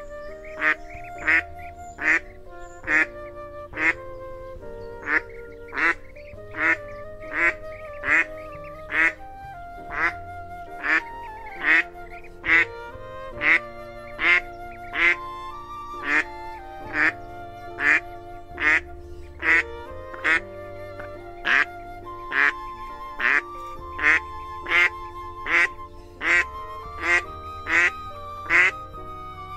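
Decoy recording of a female mồng két bird calling: short, loud calls repeated a little more than once a second, with softer continuous calls of chicks underneath.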